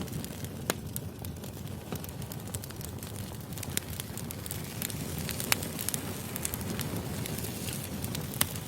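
Wood fire burning with a steady low rush and frequent sharp crackles and pops. A few pops are louder: one just under a second in, one about midway and one near the end.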